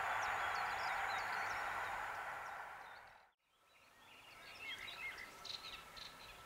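Rolling noise of a passing electric-hauled passenger train dying away, cut off abruptly about halfway through. After the cut, birds chirp against quiet outdoor background.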